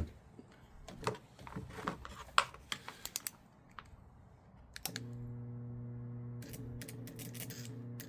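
Scattered sharp clicks and snaps, then about five seconds in a microwave oven transformer is switched on and hums steadily, with light crackling over the hum. In this no-capacitor setup it makes almost nothing.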